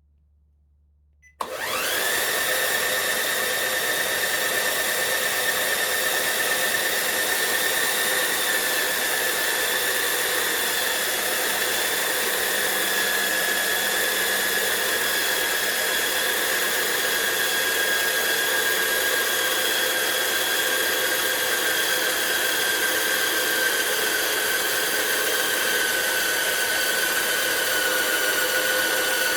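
Small CaDA M electric motor, a Lego Power Functions-compatible motor, switches on about a second and a half in and runs with a steady, high-pitched whine. The pitch sinks slowly over the run.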